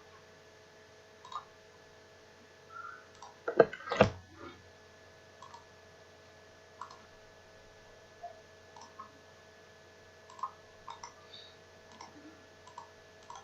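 Computer mouse clicking now and then, with two louder, sharper clicks close together about four seconds in, over a faint steady hum.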